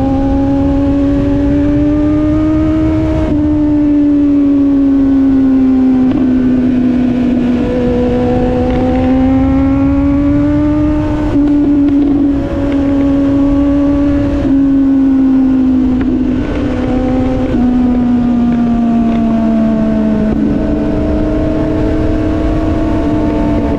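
Motorcycle engine running at riding speed; its note rises and falls gently with the throttle and breaks off briefly a few times. Underneath is a low rush of wind noise on the microphone.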